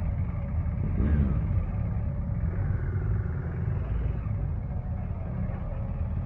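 Steady low vehicle rumble, with a brief rise and fall in pitch about a second in.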